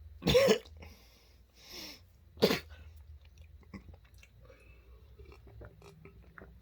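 A person coughs hard twice, about two seconds apart, with a breath between, while working on a mouthful of several dried edible earthworms. After the coughs comes soft, clicky chewing.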